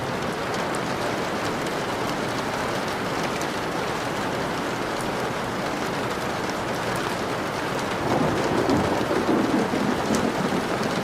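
Steady rain with scattered drop ticks. A rumble of thunder comes in about eight seconds in and keeps rolling.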